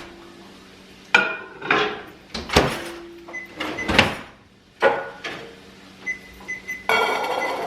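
Kitchen clatter: a string of separate knocks and clunks, like cupboard doors, containers and pans being handled, with a few short high electronic beeps, several in quick succession near the end.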